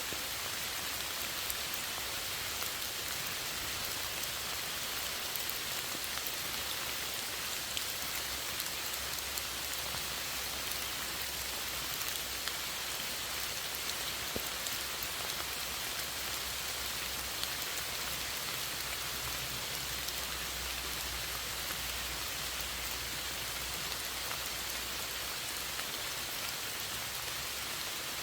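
Steady rain falling, an even hiss with many small drop patters, constant throughout.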